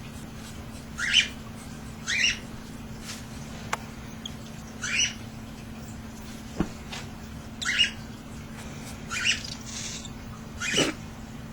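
Nine-day-old cockatiel chicks calling in short cheeps, repeated every one to two seconds.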